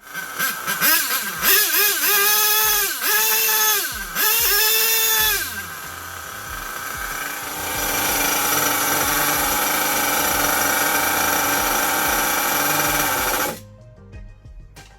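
A drill is used to spin-start an RC nitro engine. First come several short bursts of whine that rise and fall in pitch. Then comes a steadier high-pitched run lasting about six seconds, which cuts off suddenly.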